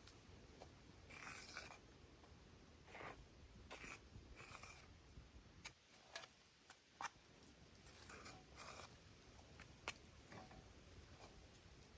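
Quiet short scraping and rubbing strokes, irregularly spaced, with a few sharp clicks among them.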